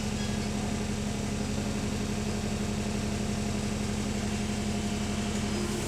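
London bus's diesel engine idling steadily, heard from on board, with a constant low hum; the idle is rattly.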